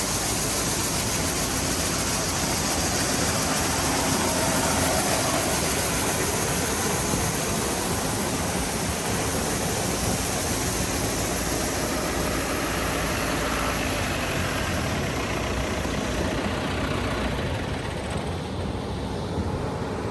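Farm grain-handling machinery running steadily, a constant even rush with a faint low hum and no changes in pace.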